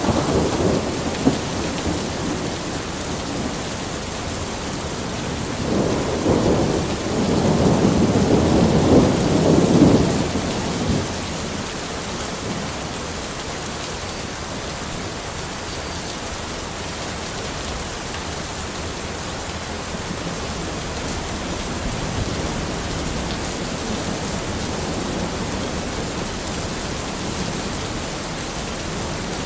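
Steady rain, with rolls of thunder: one fading away at the start, a long, louder rumble from about 6 to 11 seconds in, and a fainter one later on.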